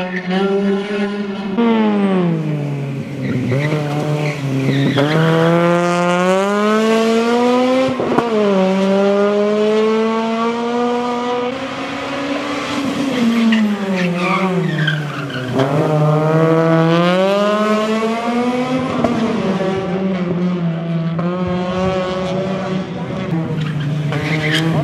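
Honda Civic Type-R rally car's four-cylinder engine driven hard: the pitch climbs through the gears with a sharp drop at each upshift, falls back as it slows for corners, then climbs again.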